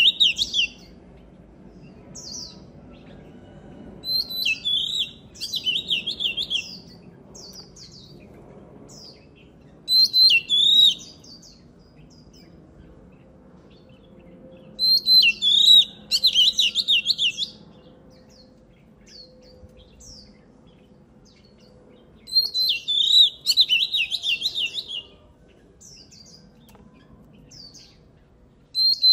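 Oriental magpie-robin singing: bursts of rapid, high whistled phrases lasting a second or three, several times, with single scattered notes in the pauses between.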